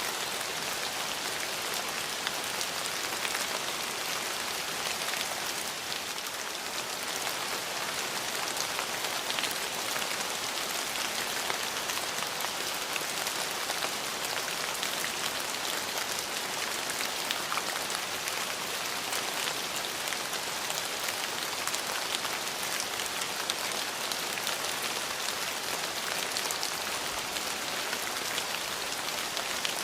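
Steady rain falling and pattering on surfaces: an even hiss made up of many small drop impacts, with no let-up.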